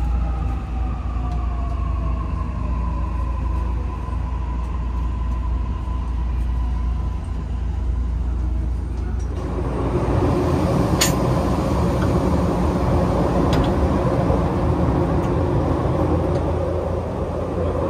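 Toei 6500 series train car running, heard from inside, with the whine of its Mitsubishi SiC hybrid VVVF inverter drive falling in pitch and then holding steady. About nine seconds in, the running noise grows louder and rougher.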